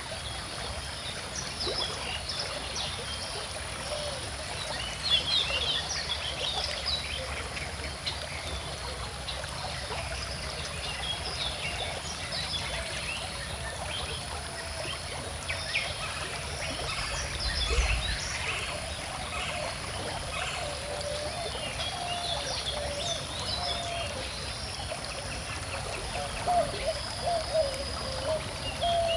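Calm stream flowing and trickling steadily, with many birds chirping and singing over it throughout.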